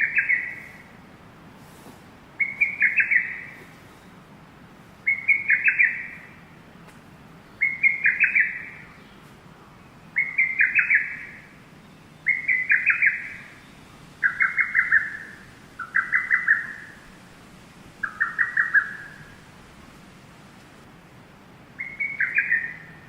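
A bird calling: a short, quick run of several notes repeated about every two seconds, ten times, with a longer pause before the last call.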